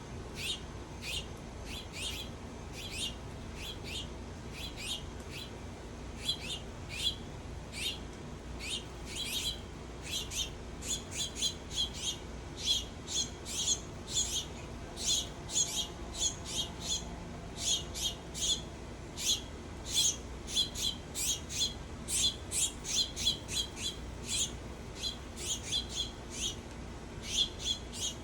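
Small birds chirping at a backyard feeder: short, sharp chirps, spaced out at first and coming quicker and more crowded from about a third of the way in.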